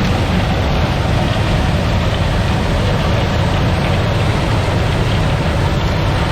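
Combine harvester running steadily under load, a loud even machine noise heavy in the low end, with no change in pitch or level.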